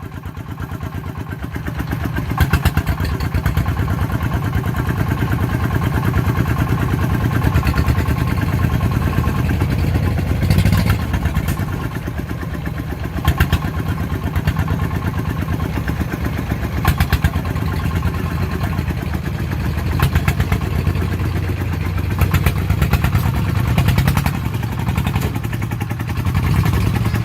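Diesel engine of a farm vehicle running steadily with a fast, even chugging, with a few brief louder knocks.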